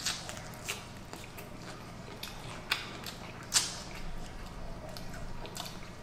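Close-miked eating: chewing with a few sharp crunches, the loudest about three and a half seconds in, from biting into crispy fried chicken.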